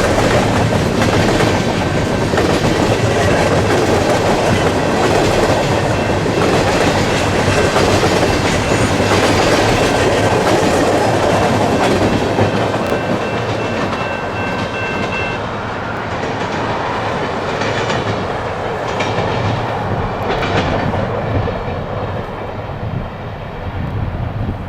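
Freight train cars rolling past, their wheels clicking over rail joints over a steady rumble, with a faint high ringing from the wheels. The sound grows quieter from about halfway through as the train moves off.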